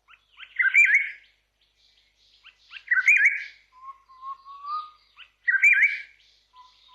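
Chorister robin-chat singing: three loud, rich warbled whistle phrases about two and a half seconds apart. Between them comes a softer, slowly rising whistle.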